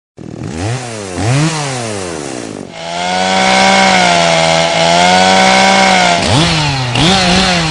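Chainsaw engine revved up and down twice, then held at full throttle for about three seconds with a loud rasping hiss, then blipped twice more near the end.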